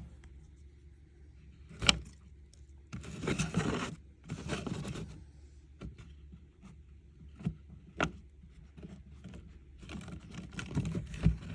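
Handling noise in a terrarium: rustling and scraping, with a couple of sharp knocks about 2 and 8 seconds in.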